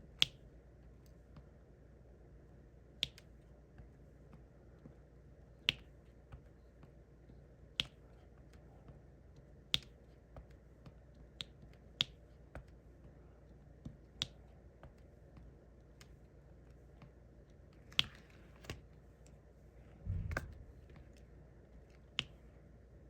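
Diamond painting drill pen tapping resin drills onto the sticky canvas: sharp single clicks every second or two. A brief louder rustle or bump about twenty seconds in.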